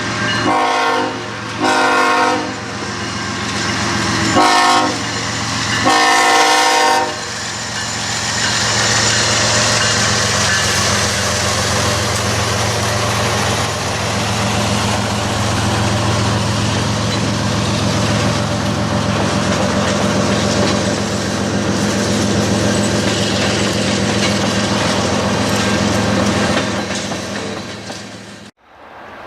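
Diesel freight locomotive's multi-chime air horn sounding four blasts, long, long, short, long: the grade-crossing signal. The train then passes close, with a low engine hum and steady wheel-on-rail rolling noise, until the sound cuts off suddenly near the end.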